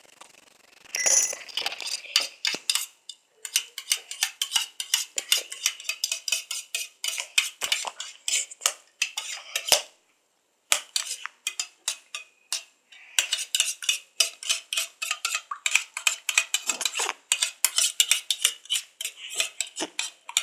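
A spoon stirring in a container, clinking against its sides in quick, irregular taps with a few short pauses. It is mixing borax activator into a glue-and-water mixture to make slime.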